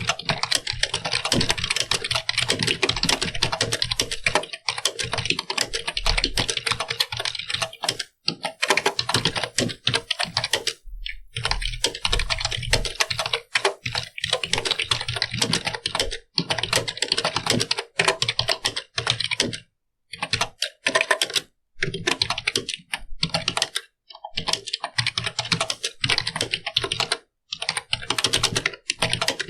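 Fast, continuous typing on a computer keyboard, the keys clicking in rapid runs broken by brief pauses between bursts.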